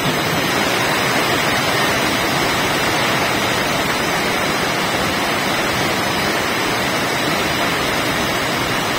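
Heavy monsoon rain pouring down steadily: a loud, even hiss of a downpour.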